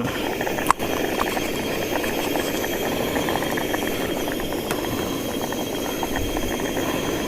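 Pot of pumpkin and coconut-milk curry boiling steadily on a camping stove, a continuous bubbling rush with fine crackle, and one sharp click under a second in.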